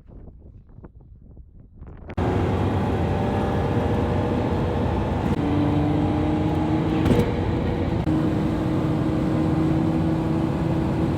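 A car driving at road speed: a steady engine drone under dense tyre and road noise, starting suddenly about two seconds in. Before that, wind gusts on the microphone.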